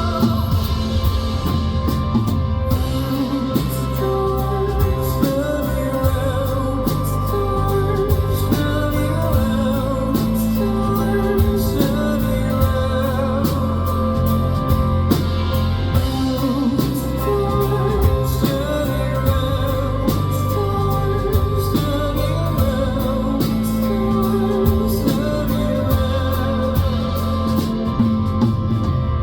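Live band song with singing: held vocal notes over instruments and a steady drum beat.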